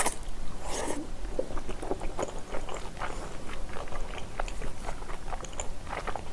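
Close-miked chewing of a mouthful of spicy bulgogi with chewy glass noodles: a steady run of small wet clicks and smacks. There are two louder noisy sounds in the first second as the mouthful goes in.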